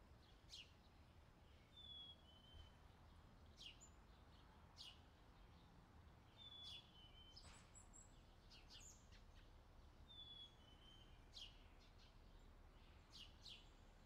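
Very faint bird calls: a short two-note falling call three times, about four seconds apart, with scattered brief high chirps between, over quiet room hum.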